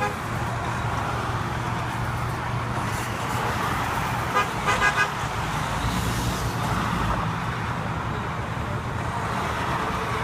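Trucks going past with engines running and tyre and road noise, and a horn sounded in a quick series of short toots about four and a half seconds in.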